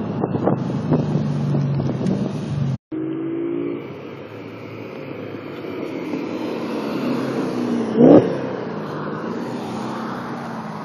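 Audi S4's 4.2 V8 through a LaBree non-resonated exhaust, running hard on a launch with crackling from the exhaust, a short break about three seconds in, then accelerating and slowly fading. A brief loud burst comes about eight seconds in.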